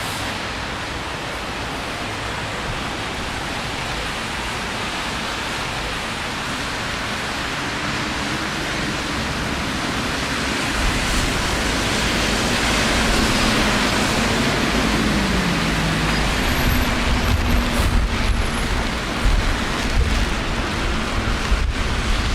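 Steady hiss of rain on a wet city street. About halfway through, a low rumble of wind on the microphone comes in and the sound grows louder, with a faint vehicle engine tone dropping in pitch as it passes.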